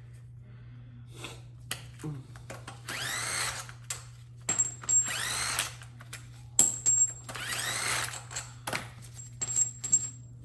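Power drill-driver run in three short bursts, its pitch rising and falling with each trigger pull, with metal clinks of parts and tools between the runs.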